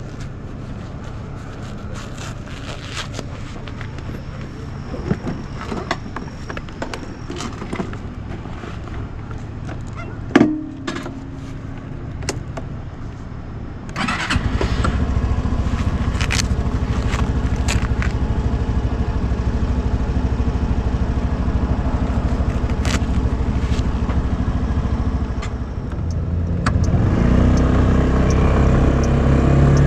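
Scattered small clicks and a sharp clack about ten seconds in, then the Suzuki Address 125 scooter's single-cylinder engine comes in abruptly about fourteen seconds in and runs steadily, growing louder near the end.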